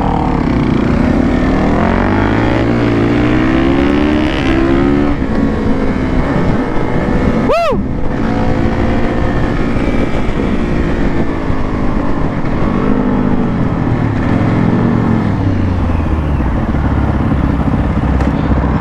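Motorcycle engine running under way, its pitch rising and falling repeatedly. A brief high chirp rises and falls a little over halfway through.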